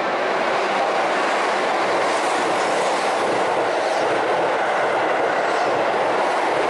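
Keihan electric train running along the platform: a steady, loud rush of wheels on rail.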